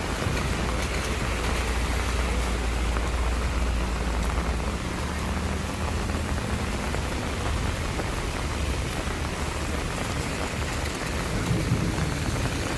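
Steady heavy rain falling on surfaces around the walker. A low rumble with a faint hum runs under it for the first half and fades out a little past the middle.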